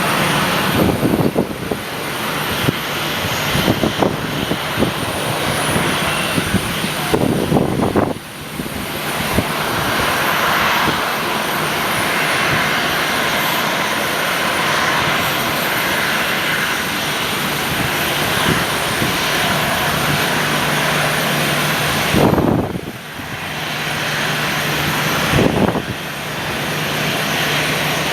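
Airliner engines running steadily, with strong gusts of wind buffeting the microphone several times.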